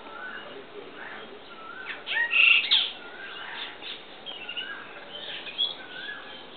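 Birds calling: short whistled notes every second or so, with a louder, rougher burst of calls about two seconds in.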